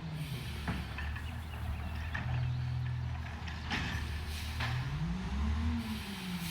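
Garbage truck's diesel engine running, revving up about four and a half seconds in and settling back down near the end, with a few short sharp hisses and clicks over it.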